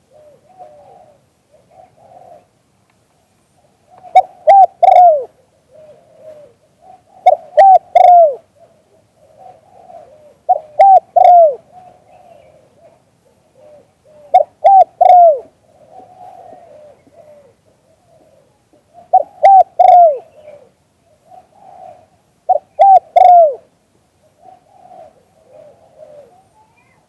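A dove cooing: a loud phrase of a few falling coos about every three to four seconds, with softer cooing in between.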